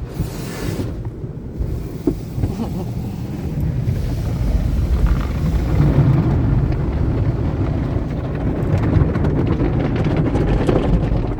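Automatic tunnel car wash working over the car, heard from inside the cabin: a steady low rumble of the machinery and water and brushes on the body, growing louder about four seconds in, with a fine patter of spray near the end.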